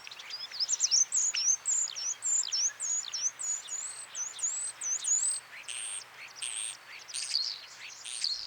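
Common starling singing: a rapid, unbroken run of high, slurred whistles and trills, several notes a second.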